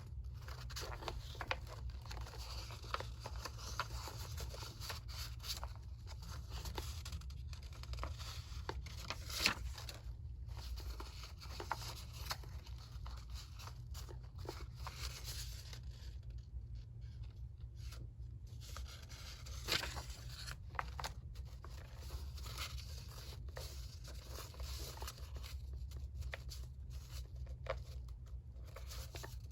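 Paper being handled and worked for a collage: continuous rustling and scraping with bouts of tearing, and two sharp clicks about ten seconds apart. A steady low hum lies underneath.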